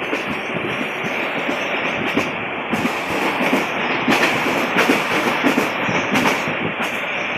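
Rangpur Express passenger train running along the track: a steady rumble and rattle with irregular clicks and knocks from the wheels on the rails, a few sharper clacks near the middle.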